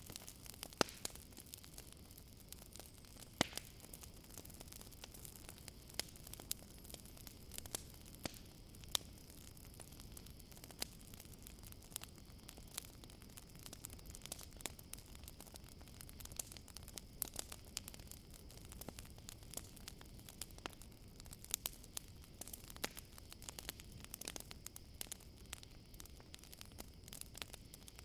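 Campfire crackling, with irregular sharp pops and snaps over a low steady hiss, and a steady high chirring of crickets underneath.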